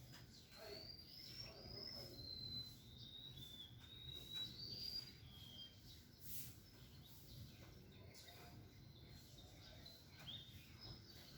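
Faint birdsong: small birds giving thin, high chirps and short whistled phrases, busiest in the first half and again near the end, over a low steady background rumble.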